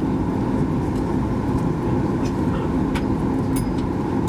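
Cabin noise of a Boeing 737 MAX 8-200 taxiing after landing: the steady rumble of its CFM LEAP-1B engines at idle and the airframe, with a few faint light clicks.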